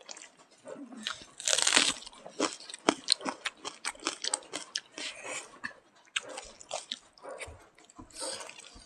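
Close-up eating sounds of smoked pork and rice being bitten and chewed: many short wet mouth clicks and crunching, with a louder crunching bite about one and a half seconds in.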